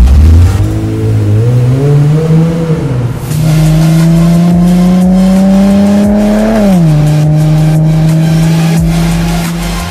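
Porsche Panamera engine accelerating hard, its pitch climbing steadily for about six seconds, then dropping sharply at an upshift and holding steady.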